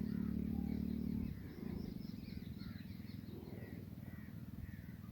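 Birds chirping and twittering in many short high calls, over a low steady hum that drops away about a second in.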